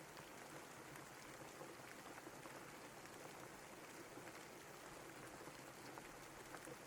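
Steady, quiet rain falling, with scattered faint drop ticks.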